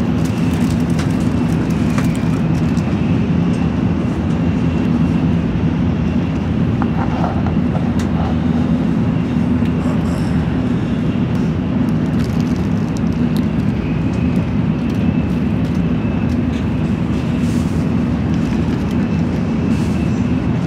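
Steady rumble of a Tokaido Shinkansen bullet train at speed, heard from inside the passenger car, with a thin high whine over it. A few light clicks of a plastic bento box being handled.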